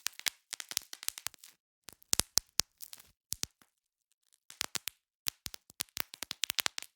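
Plastic bubble wrap popping: quick clusters of sharp snapping pops, with short pauses between the clusters.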